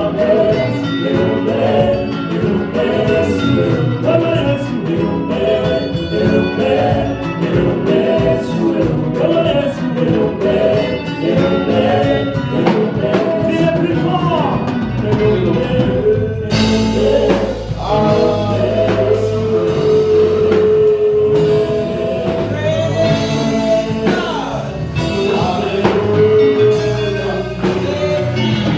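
Live gospel worship music: singers with a band and steady drum beat, filling out louder and fuller about halfway through.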